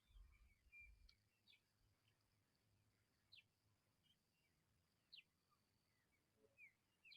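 Faint, scattered high bird chirps, with a few quick down-sweeping notes every second or two, and brief low rumbles in the first second.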